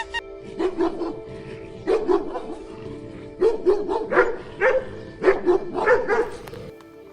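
A dog barking about a dozen times in short groups of two or three, over background music with steady held notes. The barking stops near the end.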